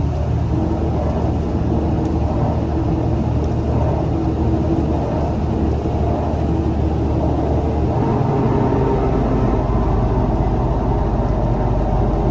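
Scania L94UA city bus running, its engine note steady with a change in its low hum about eight seconds in.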